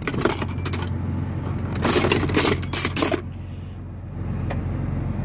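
Metal hand tools clinking and clattering against each other while being rummaged through in a toolbox, in two bursts of rattling with a quieter scrape between.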